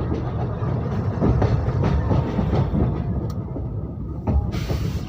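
Moving train running, a steady rumble of wheels on the track with irregular clattering strokes. A short hiss cuts in briefly near the end.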